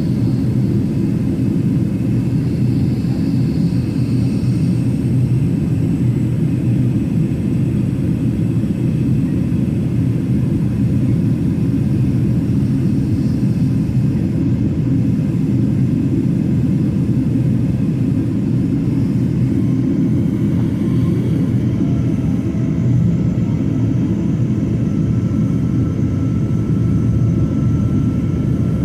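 A Boeing 767-300ER's jet engines give a loud, steady low rumble, with a faint thin whine coming in about three-quarters of the way through.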